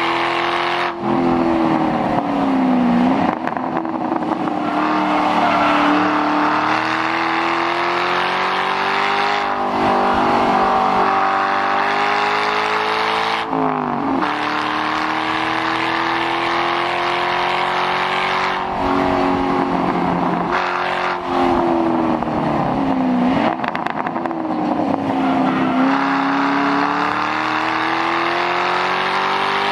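2006 Ford Mustang GT's 4.6-litre V8 running loud through a muffler-delete exhaust under hard acceleration. Its pitch climbs steadily, then falls sharply several times as the driver lifts, brakes and shifts.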